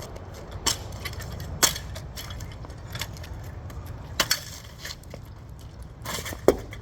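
Scooter clattering: irregular sharp metallic knocks and clinks, about a second or more apart, over a steady low rumble, with the loudest knock near the end.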